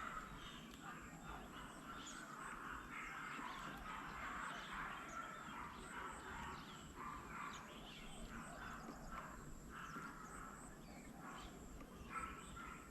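Birds chirping and calling, many short overlapping calls.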